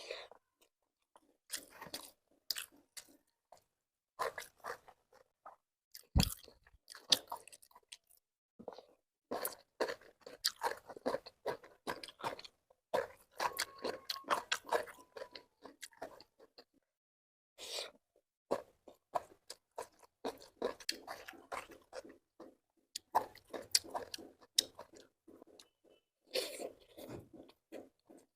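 A person eating close to the microphone: chewing and crunching food in irregular clusters with short pauses between mouthfuls.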